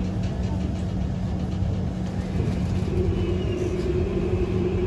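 Kawasaki C151 MRT train running with its PMSM traction motors, heard from inside the car: a steady low rumble with a constant motor tone, and a second, higher motor tone coming in about three seconds in.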